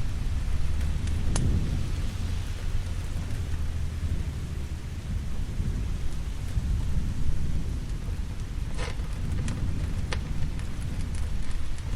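Steady rain with a continuous low rumble of thunder, and a few sharp pops of a crackling wood fire, one about a second in and three close together near the end.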